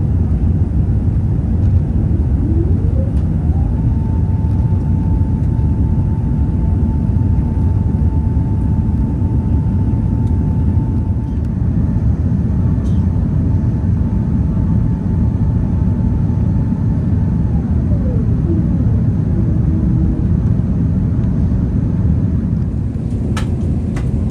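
Airbus A380 passenger cabin noise in flight: a loud, steady, deep rush of engines and airflow. About three seconds in, a mechanical whine rises in pitch, holds steady for about fourteen seconds, then falls away. A few sharp clicks come near the end.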